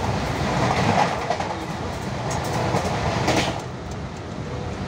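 Mumbai suburban local train (electric multiple unit) running, heard from inside a crowded compartment: a steady rumble of wheels on the rails with a couple of louder clacks, about a second in and again just past three seconds, then easing slightly.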